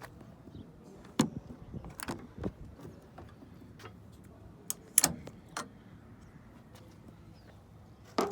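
A few scattered sharp clicks and knocks of something being handled, the loudest about a second in and about five seconds in, over a quiet background.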